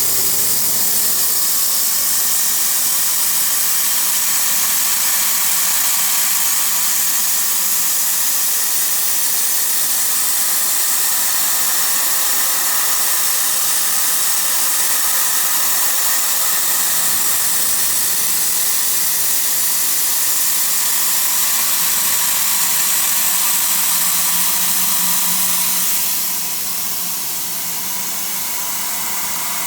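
CNC mill-turn machine running during shaft machining: a steady hiss with faint steady whining tones, dropping slightly in level near the end.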